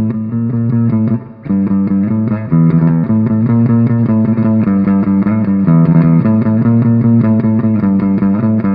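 Electric guitar playing a repeating picked note-and-chord pattern through a multi-effects pedal's spring reverb setting.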